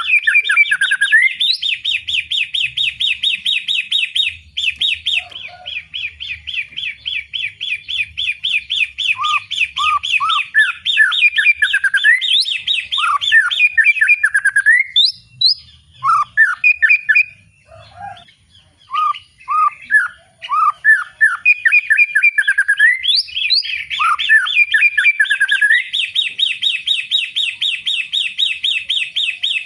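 White-rumped shama singing loudly: long runs of fast, rapidly repeated high notes. About halfway through the song breaks into a series of separate clear whistles that slide downward, then returns to the fast repeated run near the end.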